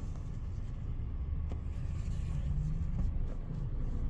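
Car engine idling with a steady low rumble, heard from inside the cabin while waiting in the car-wash queue.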